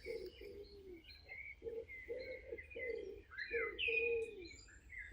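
Birds calling: a quick run of short, low notes, some dropping at the end, with higher chirps and short rising and falling whistles over them.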